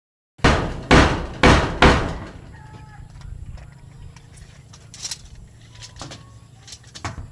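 Four loud bangs in quick succession, about half a second apart, each fading quickly, followed by a low steady hum with a few faint clicks.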